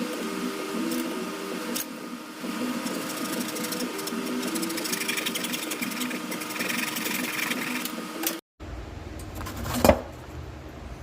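Small handheld electric power tool running for about eight seconds as it works a 3D-printed plastic mount, its motor whine dipping and recovering in pitch under load. After a break, one sharp click near the end.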